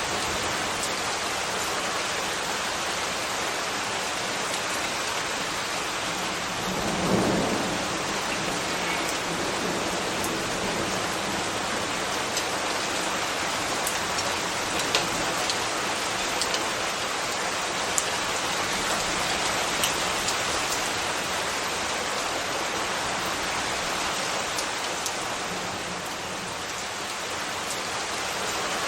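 Steady rain falling, an even hiss with scattered sharp drip ticks. A brief low rumble swells about seven seconds in.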